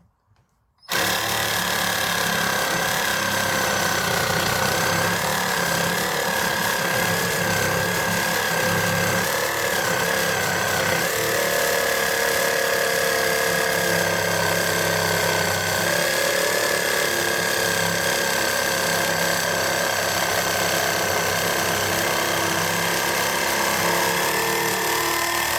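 Reciprocating saw with a 6 TPI wood blade cutting through MDF: a steady motor whine over continuous rasping. It starts about a second in and stops abruptly at the end.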